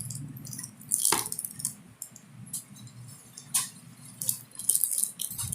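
Accessories and packaging being handled: short clicks, rustles and light clatters of small plastic items, with the sharpest clatter about a second in and a cluster of them near the end, over a low steady hum.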